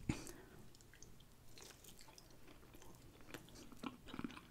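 A person chewing sauced barbecue meat close to the microphone: soft, wet mouth sounds with scattered small clicks.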